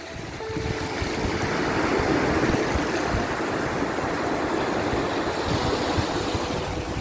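Sea waves washing in a continuous rush of surf that swells over the first couple of seconds and then holds steady.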